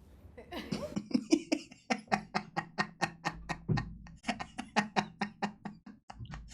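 A person laughing in a long run of quick, even 'ha-ha-ha' bursts, about four or five a second, starting about a second in.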